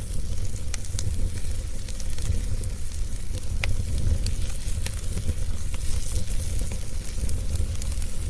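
Wood fire crackling in a fireplace: irregular sharp pops and snaps over a steady hiss and a low rumble of flames.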